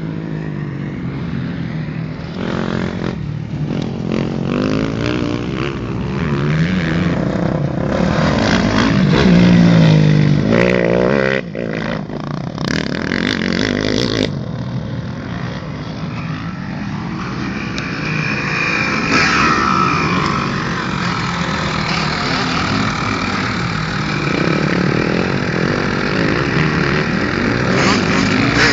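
Kawasaki 250 motocross bike engine revving up and down as it is ridden around the dirt track and over a jump. The engine is loudest about ten seconds in.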